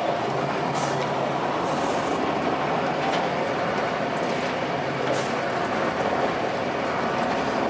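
Cabin noise of a Blue Bird transit bus under way: its Cummins ISC diesel engine and drivetrain running steadily with road noise, and a few brief rattles from the body.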